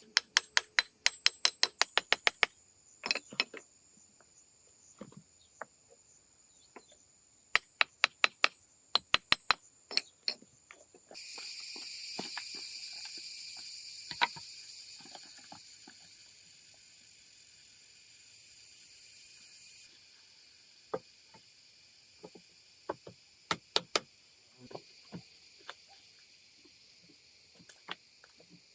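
Runs of quick, sharp knocks, like hard blows of a tool on wood or stone, over a steady high chirring of crickets or other insects. A hiss rises for several seconds near the middle.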